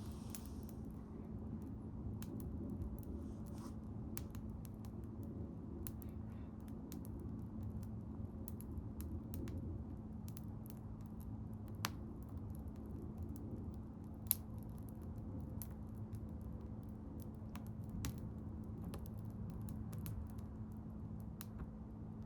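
Wood bonfire burning, crackling with irregular sharp pops over a low steady rush of flame, two louder pops a little past the middle.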